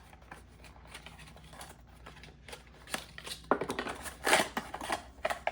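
Small clicks and taps from handling a boxed part, then a louder spell of packaging rustling and crinkling about three and a half seconds in, as the part is unpacked.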